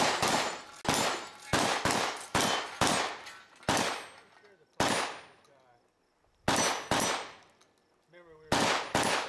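Shotgun fired in a fast string of about a dozen shots, each sharp report trailing off briefly, with a gap of over a second about halfway through before the firing resumes.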